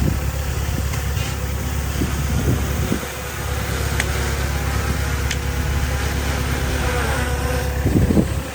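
Diesel engine of heavy earthmoving machinery running steadily, with two short metallic clicks partway through and a brief louder surge near the end.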